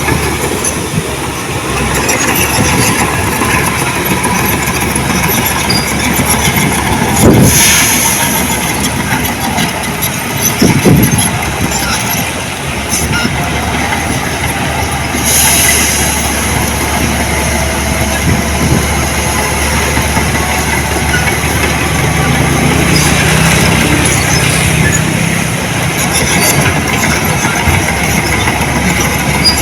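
Heavy diesel earthmoving machinery running steadily, with a few brief louder sounds about 7 and 11 seconds in.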